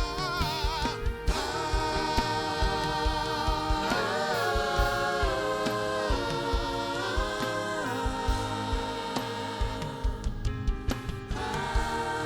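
Church worship music: voices singing long held, wavering notes that slide from pitch to pitch, over a band with a steady low beat.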